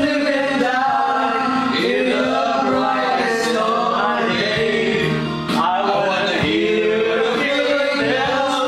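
Men singing karaoke into microphones over a pop song's backing track.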